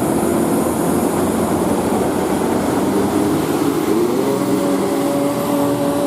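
Large diesel engine running hard under load, its pitch rising about three to four seconds in and then holding steady.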